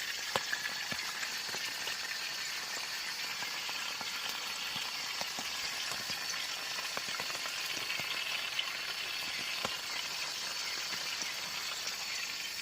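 Food frying in hot oil: a steady sizzle with scattered sharp pops and crackles.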